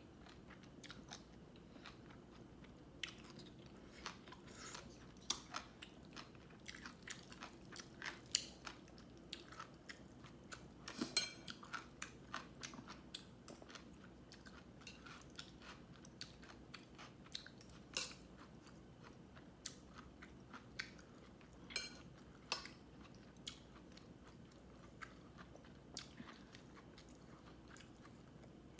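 A person chewing crisp fried, battered food, with many irregular sharp crunches; a few louder bites come around the middle.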